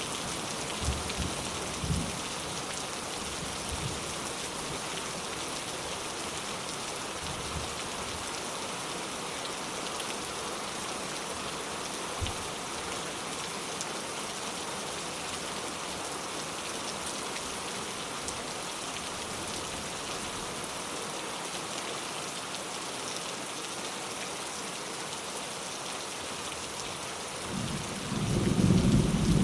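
Steady rain falling, with a few brief low thuds in the first half. Near the end a low rumble of thunder builds up and becomes the loudest sound.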